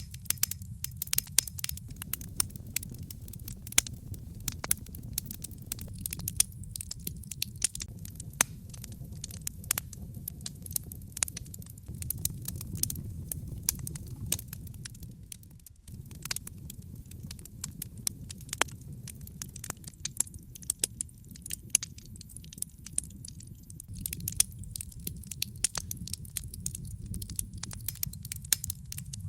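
Wood fire burning in a fireplace: logs crackling with frequent sharp pops and snaps over a low, steady rumble of the flames, dipping briefly about halfway through.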